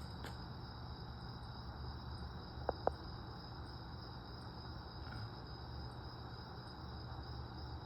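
Steady high chirring of crickets at night, with two short sharp clicks close together about three seconds in.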